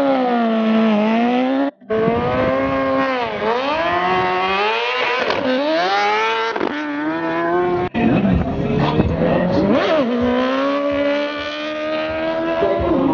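High-revving racing engines, the pitch dropping and climbing again and again as they are revved and accelerated, in several spliced clips that break off abruptly about two and eight seconds in.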